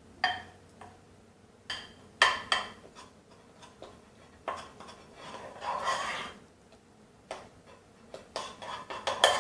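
A spoon knocking and scraping against a pot while milk powder is stirred into a hot cream-and-sugar mixture to break up the lumps: scattered, irregular clinks.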